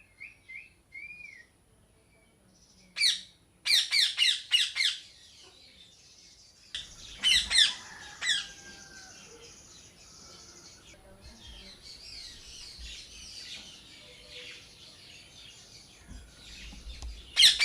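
Parrots calling: a few short whistled notes at the start, then loud squawks in quick runs of several calls, with softer chattering between the runs.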